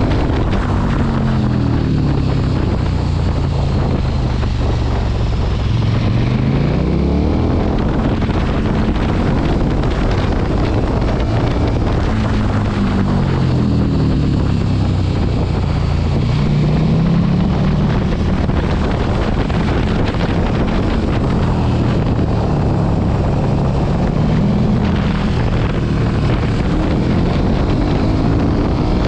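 Sport motorcycle engine running under way, its pitch rising and falling several times as the bike accelerates and slows, with heavy wind noise on the microphone.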